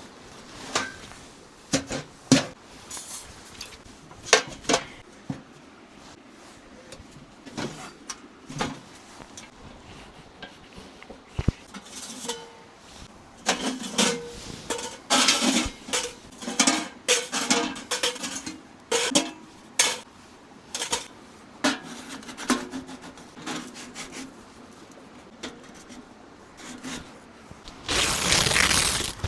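Irregular knocks, clunks and rubbing of objects being handled, busiest in the middle, with a short loud rush of noise near the end.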